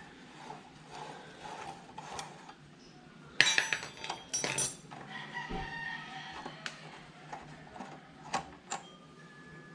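Metal tools and brake parts clinking and clattering while the front brake pads of a motorcycle are worked on by hand, with a burst of clatter about three and a half seconds in and a few sharp clicks later.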